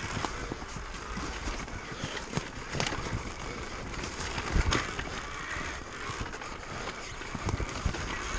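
Electric KTM Freeride dirt bike riding over rocks and roots: tyres scrabbling on stone, with a run of knocks and clatters from the wheels and chassis and a heavier thump about halfway through.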